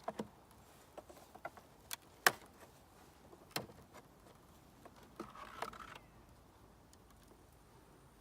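Scattered sharp clicks and knocks from handling a wooden nuc hive box and its frames, the loudest a little over two seconds in, with a short scraping rustle around five seconds in.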